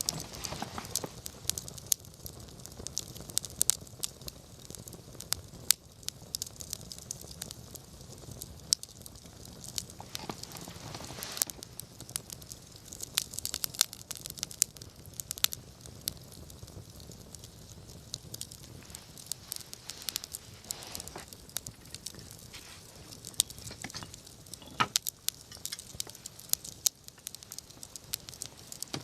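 Wood campfire crackling, with irregular sharp pops and snaps over a soft hiss of burning.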